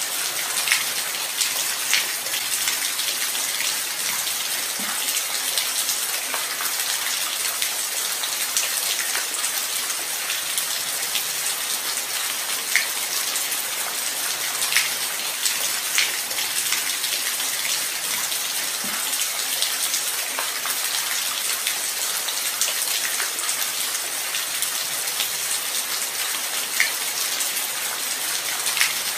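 Steady light rain falling, an even hiss with scattered individual drops ticking now and then.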